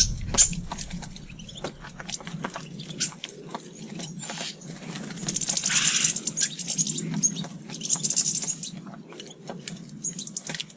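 Birds at a garden feeder: scattered sharp clicks and taps, with a brief louder chirp about halfway through and high bird chirping around it.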